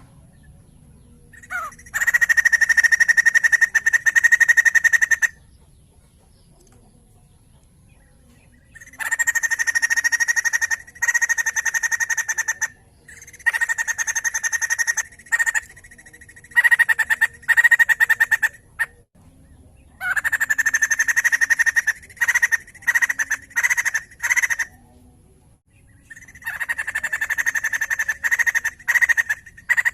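White-crested laughingthrush (poksay jambul) calling in repeated bursts of fast, rattling chatter, each burst lasting up to about three seconds with short pauses between.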